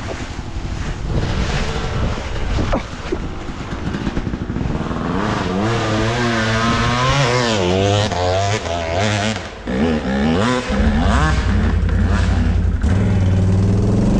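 ATV engine revving up and down repeatedly as the quad works its way up a muddy hill, then running steadier at a lower pitch near the end.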